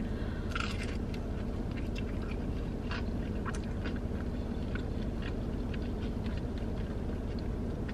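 Close-up mouth sounds of someone biting into and chewing a breaded boneless chicken wing: faint wet chewing with small scattered crunches and clicks over a steady low hum.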